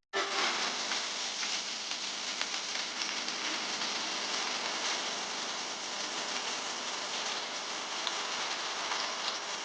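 Food sizzling steadily in hot oil in a pan, an even hiss with fine crackling.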